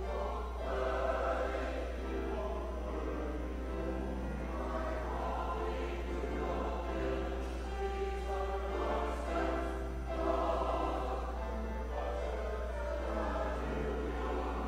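Church choir singing held, shifting chords, over a steady low hum.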